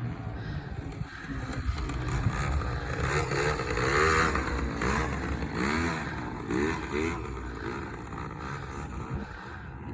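A small two-stroke Yamaha PW50 mini dirt bike engine revving up and down, its pitch rising and falling several times, loudest about four seconds in and easing off near the end, over a low rumble.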